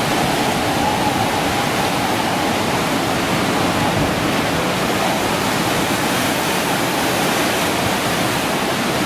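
Loud, steady rushing of water in a rainstorm and flood.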